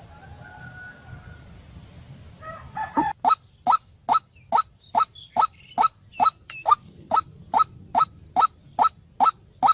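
A bird calling: a faint note early, then from about three seconds in a rapid, even series of short rising notes, about two and a half a second, in a fowl-like voice.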